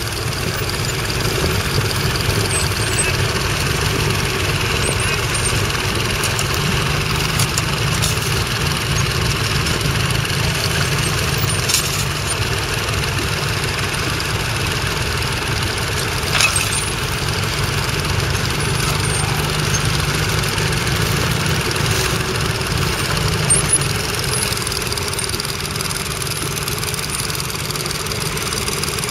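Nuffield Universal 3 tractor's three-cylinder diesel engine running steadily, with a few brief knocks.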